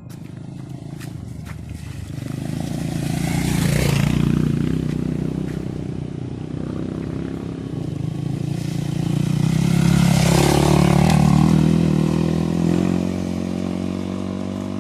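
Motor vehicle engine running, its sound swelling twice, as if passing close by.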